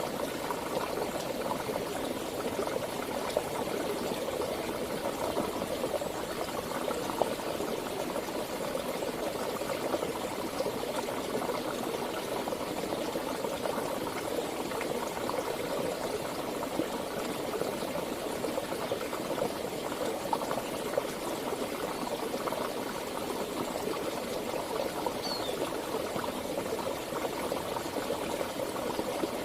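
Flowing water of a mountain stream, rushing steadily.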